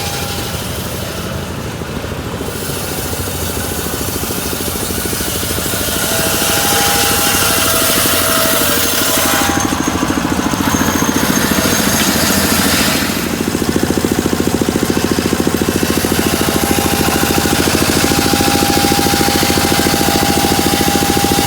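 Working model sawmill machinery running with a fast, even rattling rhythm. It grows louder about six seconds in and again about thirteen seconds in.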